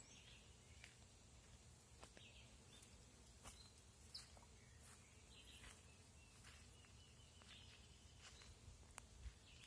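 Faint, scattered bird chirps and short calls, with a quick run of notes about two-thirds of the way through, and a few sharp faint clicks over a quiet outdoor background.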